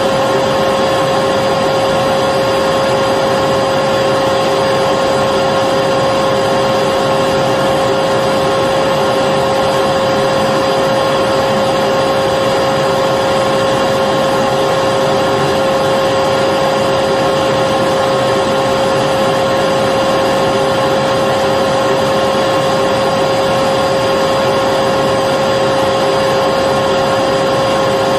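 Electric vacuum cleaner running steadily, a constant motor whine over the rush of air, with no change in speed or pitch.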